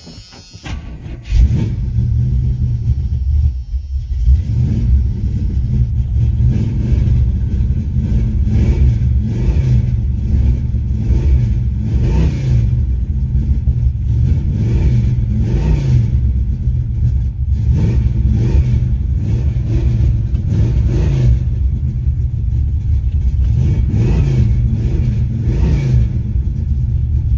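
Small-block 350 V8 with a Comp Magnum 292 cam, long-tube headers and Flowmaster mufflers, running loudly and rising and falling in pitch again and again as it revs and accelerates. It cuts in suddenly about a second in.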